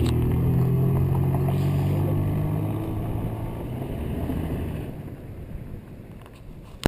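Car engine running steadily, then fading away over a few seconds. A sharp click near the end as the sound cuts off.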